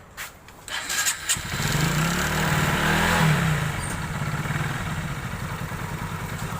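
Hero Super Splendor's single-cylinder four-stroke engine starting after a couple of clicks, revving up and back down once, then settling into a steady idle. It runs with no crank noise, the sign that the rebuilt crank is sound.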